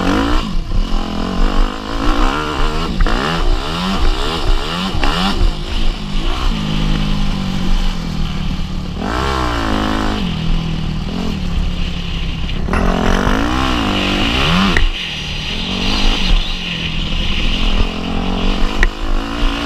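Motocross bike engine revving hard, its pitch climbing and dropping over and over as the rider accelerates, shifts and backs off on the track.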